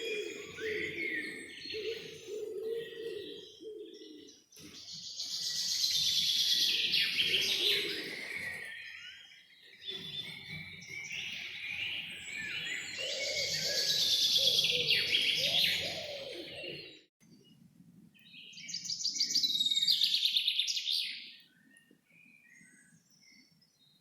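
Wild songbirds singing in the forest, in several long bouts of rapid chirping and trilling, with a lower steady call underneath during the first part. The singing thins out and goes quieter near the end.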